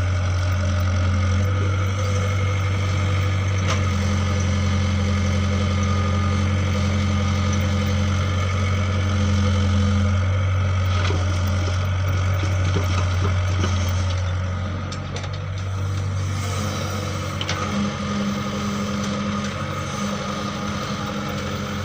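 Large engine running steadily with a deep, even hum, easing slightly about fifteen seconds in.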